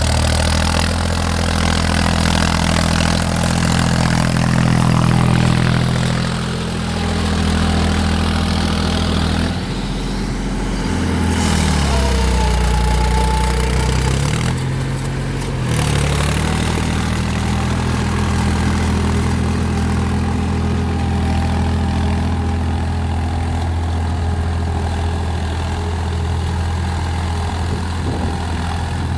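Mahindra 275 TU tractor's diesel engine running steadily. Its pitch falls about ten seconds in and climbs back up a few seconds later.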